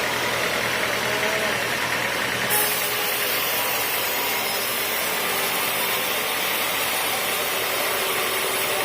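Sawmill machinery running steadily while a teak stump is sawn: a continuous, even engine-and-saw noise.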